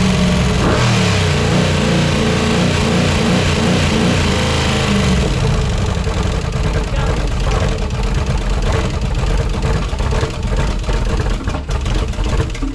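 GM 6.0-litre L76 aluminium V8 running on an open engine test stand. It holds a steady speed for about five seconds, then drops to a lower, more uneven pulse, and cuts off suddenly at the very end.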